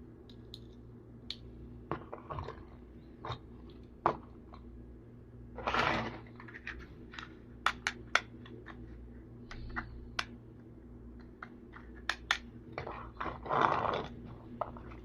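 Plastic toy vehicles being handled: irregular clicks and knocks with a few short scraping rustles, over a steady low hum.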